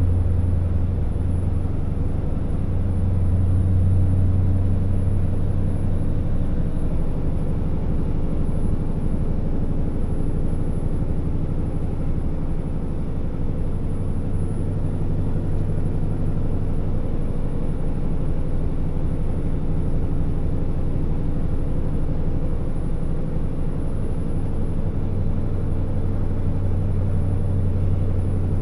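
Scania R650 timber truck's V8 diesel engine running under way, a steady low drone with road noise that swells slightly in the first few seconds and again near the end.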